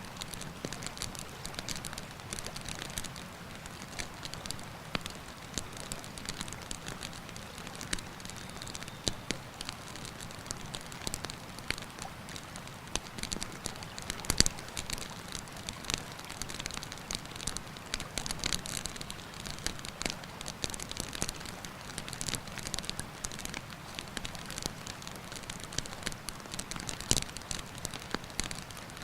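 Wood campfire crackling, with many sharp pops, the loudest about halfway through and again near the end, over the steady rush of a mountain river.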